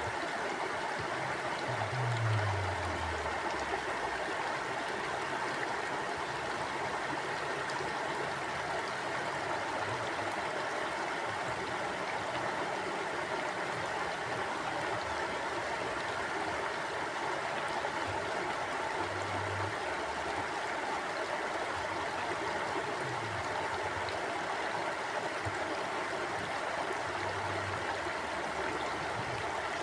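River water flowing steadily: a constant, even rush of running water.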